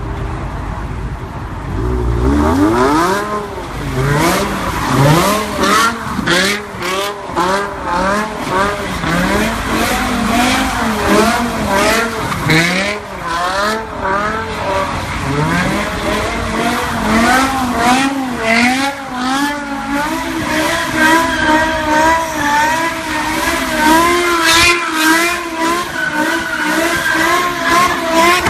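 Car engine revving up and down over and over, its pitch rising and falling about once a second, with tyres squealing as the car drifts.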